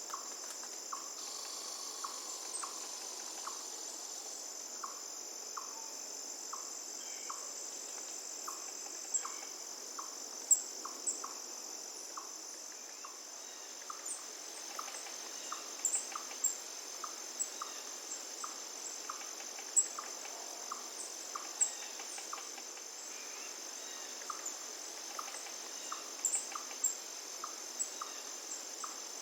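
Steady high-pitched chorus of crickets, with a short lower note repeated evenly about every half second or so. Sharp bird chirps come in scattered over it, the loudest about ten and twenty seconds in.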